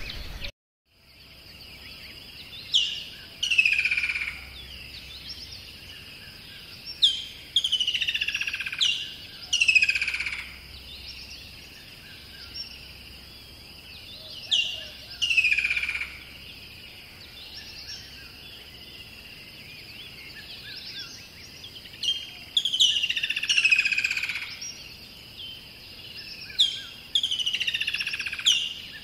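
Bird song: groups of two to four loud whistled notes, each sweeping sharply downward, repeating every few seconds over a steady high-pitched hum. The sound cuts out briefly just after the start before the birds begin.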